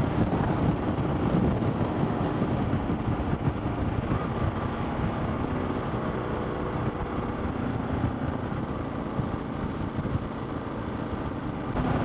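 Motorcycle riding at road speed: a steady engine drone mixed with road and wind noise, picked up close to the rider.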